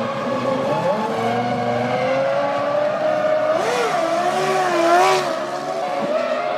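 Formula One V10 engines at race speed: several cars' engine notes rising and falling through gear changes, with one car passing loudly about five seconds in.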